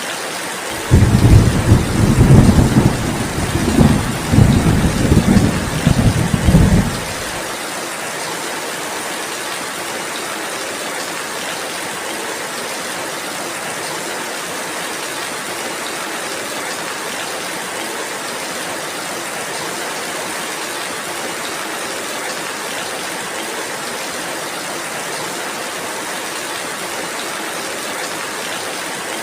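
Steady rainfall hissing, with a loud low rumble of thunder starting suddenly about a second in, swelling several times and dying away after some six seconds, leaving the rain alone.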